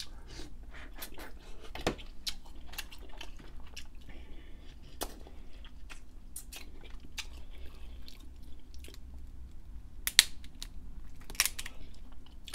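Close-miked chewing of crab meat, with a run of sharp clicks and cracks from crab shell being pulled and broken by hand. The loudest crack comes a little after ten seconds in.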